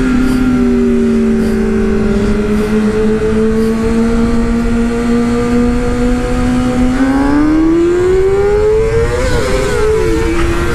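Motorcycle engine running steadily under wind rumble, then revving up about seven seconds in, with the pitch dropping briefly near the end as it shifts gear.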